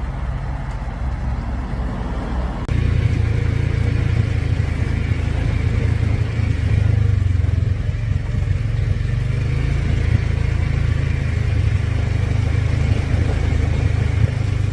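A vehicle's engine and road rumble, steady and deep, stepping up in loudness about three seconds in.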